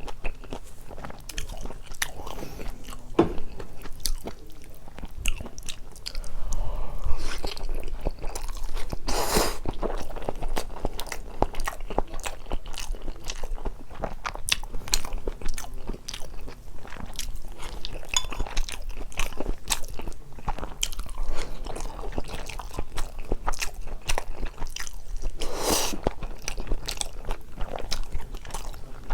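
Close-miked eating sounds of a person chewing and biting into spicy carbonara fire-noodles with Spam and Vienna sausages: a dense run of small wet mouth clicks and chews, with a couple of longer louder smacks about nine seconds in and near the end.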